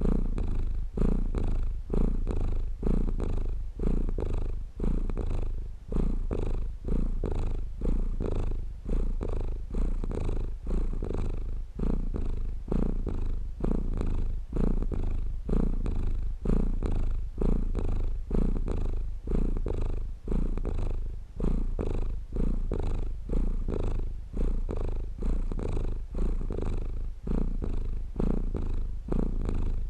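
Domestic cat purring steadily and close up, the purr swelling and dipping with each breath in and out, roughly every one and a half seconds.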